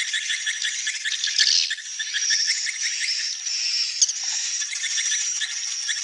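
Swiftlets twittering: a dense, unbroken stream of rapid, overlapping chirps and rattling trills.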